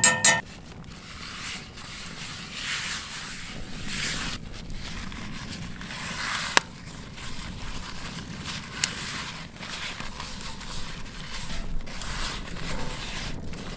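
Campfire crackling and hissing under cast iron pans being heated to re-season them, with two sharp pops about six and a half and nine seconds in.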